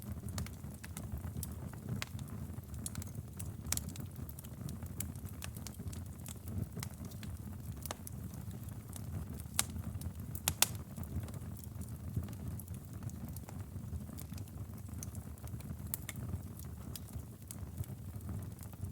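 Campfire burning: a steady low rumble of flame with irregular sharp crackles and pops, two louder pops a little over halfway through.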